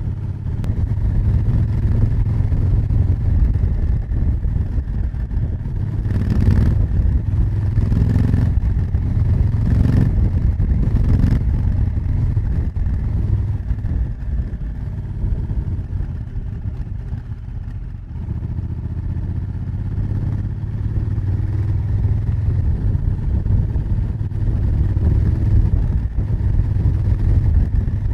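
Honda Africa Twin CRF1000L parallel-twin engine and exhaust running, heard close from a microphone mounted at the rear of the bike. The sound swells with several short sharp bursts between about 6 and 12 seconds in, eases, then builds again.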